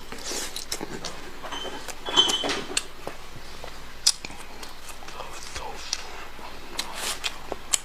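Close eating sounds of a person chewing braised pork bone meat: wet mouth clicks and smacks, with a few louder sharp smacks about two and four seconds in and again near the end.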